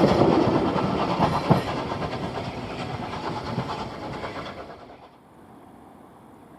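A steam-hauled train running past, its wheels clattering over the rail joints, the sound fading steadily as it recedes and dropping away about five seconds in.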